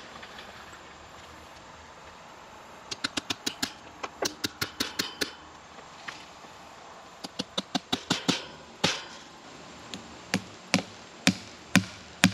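Hammer driving fencing staples partway into a fence post: fast runs of light taps starting about three seconds in, then single heavier blows spaced apart toward the end.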